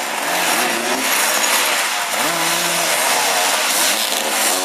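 Motoball motorcycles' engines revving up and down, several at once, their pitch rising and falling.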